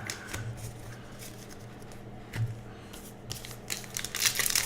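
Trading cards being handled and slid against one another, light scattered clicks and rustling, growing into denser rustle and crinkling near the end.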